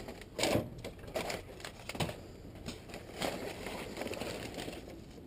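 Irregular rustling and crinkling with light clicks as items are handled and moved around, with a couple of sharper clicks about half a second and two seconds in.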